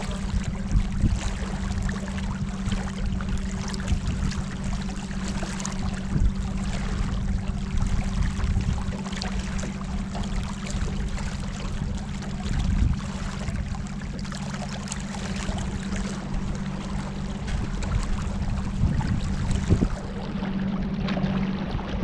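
Boat under way on the river: water splashing and rushing over a steady low hum, with wind on the microphone.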